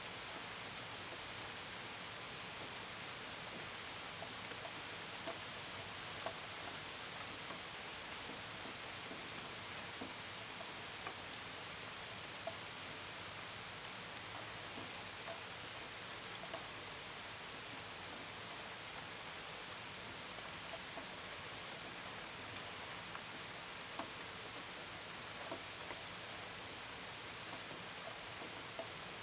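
Steady gentle rain, with scattered drops ticking close by. Crickets chirp throughout in a thin, high, pulsing trill.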